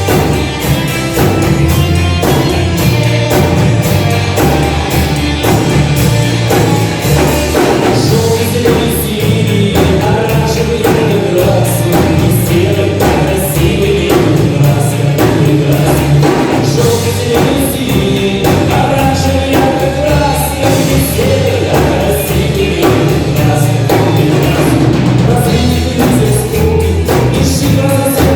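Live rock band playing a song at steady full volume, with drum kit and guitars and a regular drum beat.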